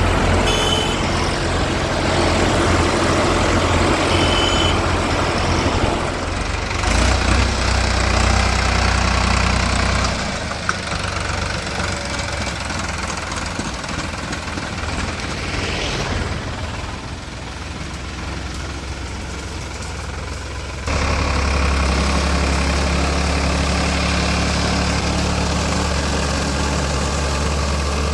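Tractor diesel engines running steadily, with the engine note changing abruptly about ten seconds in and again about twenty-one seconds in.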